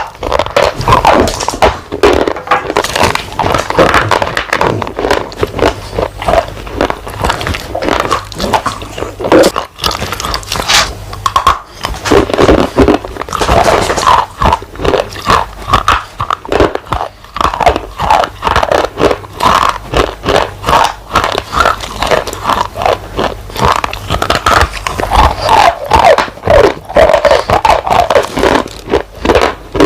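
A person biting and chewing something hard and dry close to the microphone, a loud, continuous run of crunches and crackles.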